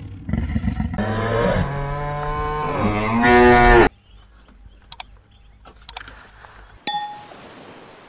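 A cow mooing: one long, loud call starting about a second in that rises in pitch near its end, following the last of a lion's roar. Then a few soft clicks and a short bell ding from a subscribe-button animation.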